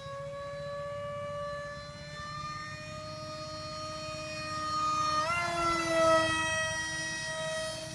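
The motor of a homemade aircraft running with a steady high-pitched whine that climbs slowly. It revs up and gets louder about five seconds in.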